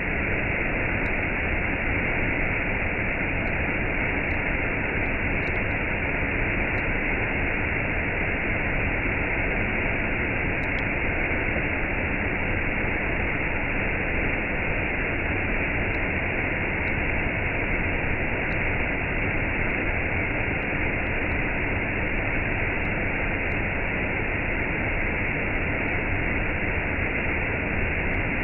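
Waterfall cascade: water rushing in a steady, unbroken hiss.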